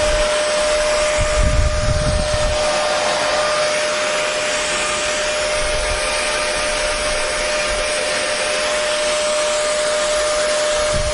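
Hair dryer running steadily: an even rushing blow of air with a steady motor hum, and a few low rumbling gusts of airflow about one to two seconds in.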